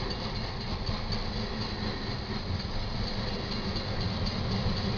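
Freight train's covered hopper cars rolling past: a steady rumble and rattle of steel wheels on the rails.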